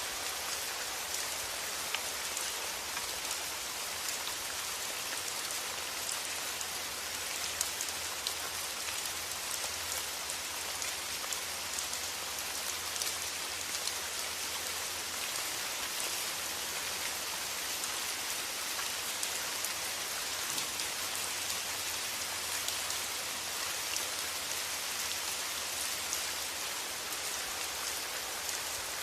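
Steady rain falling: an even hiss with many scattered drop ticks, unchanging throughout.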